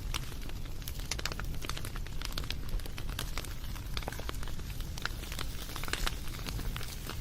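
Wood fire crackling: frequent, irregular pops and snaps over a steady low rumble.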